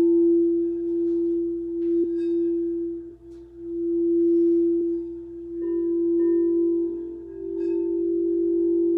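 Quartz crystal singing bowls ringing in one steady low tone that fades briefly about three seconds in and swells back. A second, higher bowl tone joins a little past halfway.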